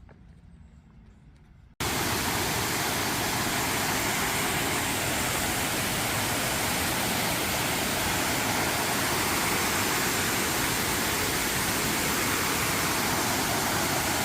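Waterfall: a loud, steady rush of falling water that cuts in suddenly about two seconds in, after a short faint stretch.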